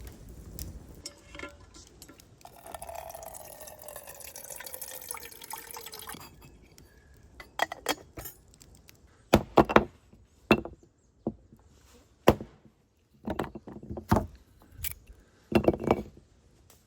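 Liquid poured into a container for a few seconds, its pitch falling as it goes, followed by a series of sharp clinks and knocks of cookware or utensils being handled.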